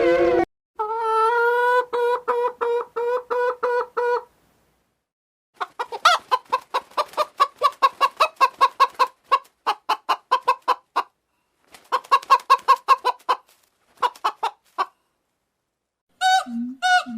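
Chicken clucking in quick runs of short, repeated clucks, with a few brief pauses between runs. Near the end a lower-pitched repeated call begins.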